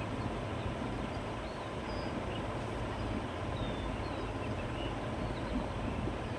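Steady wind blowing through grass in open countryside, with a few faint, short bird chirps scattered over it.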